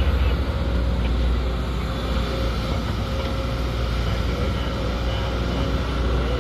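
Sumitomo SH210 excavator's diesel engine running steadily under work, a low continuous rumble.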